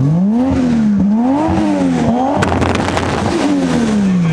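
Car engine being revved repeatedly, its note climbing and falling several times, with a short sharp crack about halfway through.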